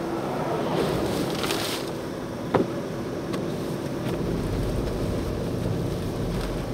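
Blizzard wind blowing steadily against the microphone, rumbling and hissing. There is a sharp click about two and a half seconds in.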